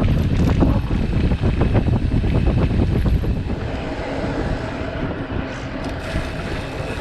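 Wind buffeting the microphone of a riding mountain biker's camera, heavy for the first few seconds, then easing to a lower, steadier rolling hum about halfway through.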